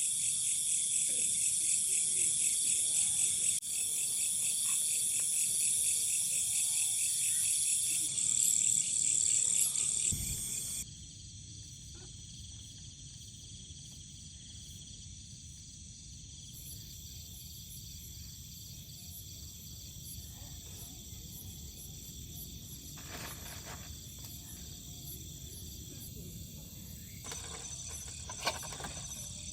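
Night insect chorus: a loud, rapidly pulsing high-pitched trilling for the first ten seconds or so, then cutting off suddenly to a quieter, steady high trilling of crickets.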